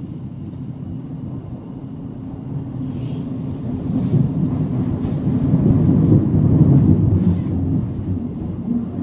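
Running noise of a Siemens Class 700 Desiro City electric multiple unit in the Thameslink core tunnel, heard from inside the passenger saloon: a low rumble that grows louder from a few seconds in, is loudest about six to seven seconds in, then eases slightly.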